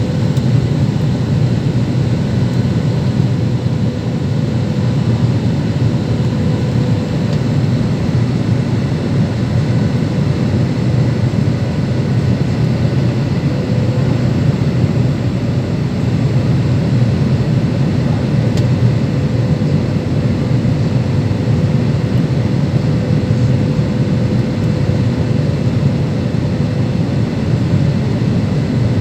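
Steady engine and airflow noise of a Boeing jet airliner heard from inside the passenger cabin: a constant low rumble with a faint steady hum above it.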